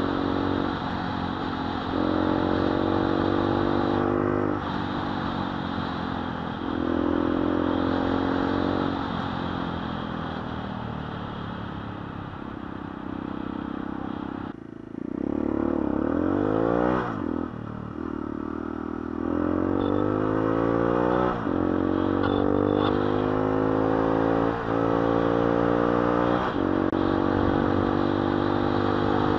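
Gilera SMT motorcycle with a swapped-in 125 engine, heard from the rider's position, accelerating hard through the gears: the engine note climbs in each gear and drops back at each shift, about nine times, with a short lull and a quick rev near the middle.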